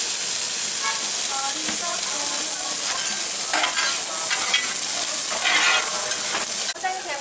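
Egg-battered pork slices (yukjeon) frying with a steady sizzle.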